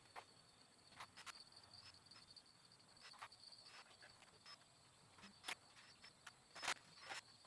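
Faint steady high-pitched trilling of crickets or other insects, with scattered light clicks and knocks, the loudest two a little past the middle.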